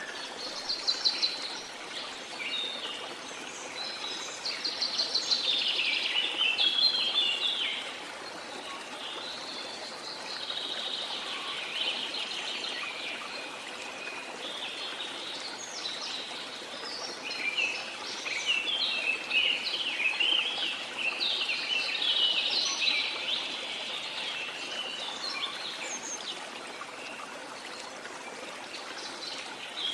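Birds singing and chirping in bursts of quick trills over a steady rush of falling water.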